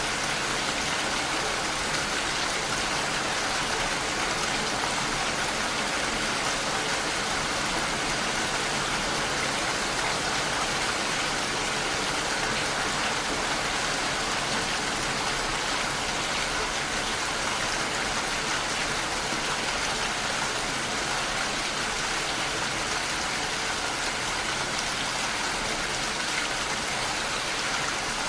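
Steady rain pattering against a window pane, an even hiss with no let-up.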